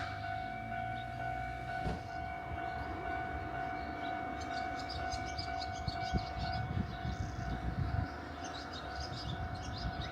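Nankai Kōya Line train moving slowly with a steady, high-pitched wheel squeal held for about ten seconds over a low rumble. Faint rapid high ticking comes in about four seconds in.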